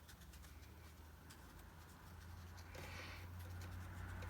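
Faint brush strokes and dabs on watercolour paper, with a soft swish about three seconds in, over a steady low hum.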